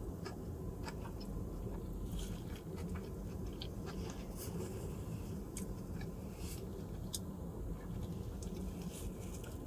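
Close-up chewing of a mouthful of sushi burrito, with many small wet mouth clicks and smacks over a steady low hum.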